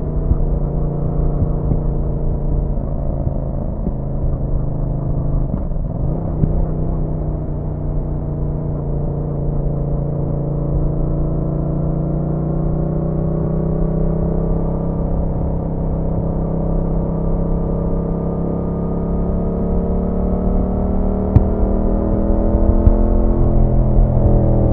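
Yamaha MT-07's parallel-twin engine running under way, with wind rush on the microphone. The engine note climbs slowly through most of the stretch as the bike pulls in one gear, then drops near the end, as at a gear change.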